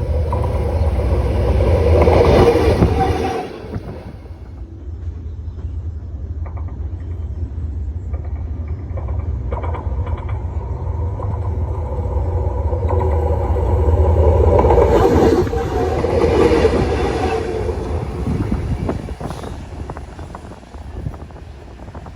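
D19E diesel-electric locomotive running with its train: a steady deep engine and rail rumble that swells twice, with short clicks of wheels over the rails in between, fading near the end.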